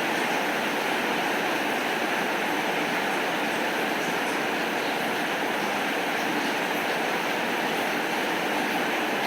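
Heavy rain falling steadily: an even rushing hiss with faint scattered ticks of drops.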